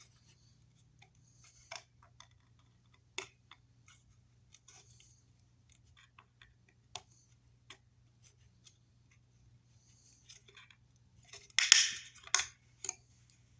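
Plastic wire mold being cut to make an opening: small scattered clicks and ticks, then a few louder sharp snips and cracks near the end.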